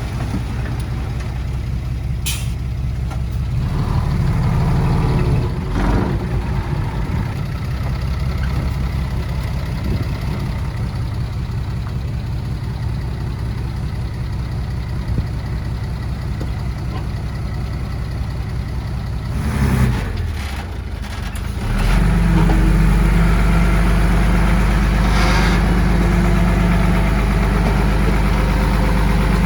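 Heavy diesel earthmoving machinery engine running with a steady low drone, with a brief sharp click about two seconds in. About two-thirds of the way through, the sound dips briefly, then settles louder and steadier.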